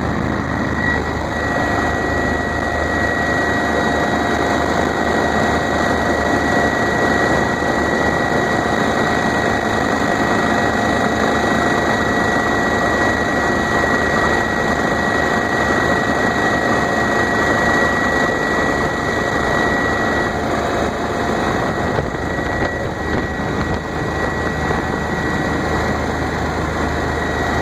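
Bell OH-58 Kiowa helicopter heard from inside the cabin: a steady, loud drone of turbine engine and rotor, with a high, even whine running over it.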